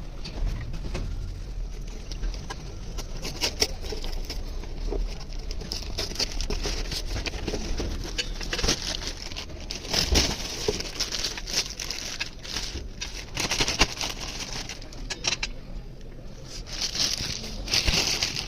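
Irregular clicks, clinks and short scrapes of metal hand tools and engine parts being handled, with no engine running.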